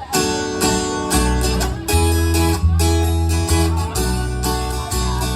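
A live band's instrumental intro to a country song: acoustic guitar strumming chords, with low notes joining about a second in.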